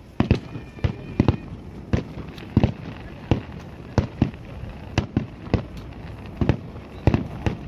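Fireworks going off in a rapid, uneven series of sharp bangs, about two a second, some coming in quick pairs.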